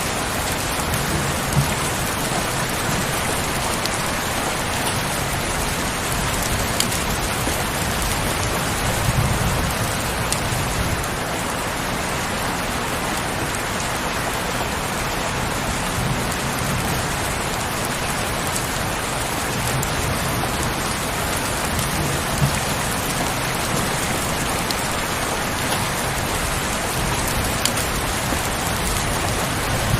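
Heavy rain falling steadily, with a few sharper single drop hits standing out. A low rumble swells faintly now and then underneath.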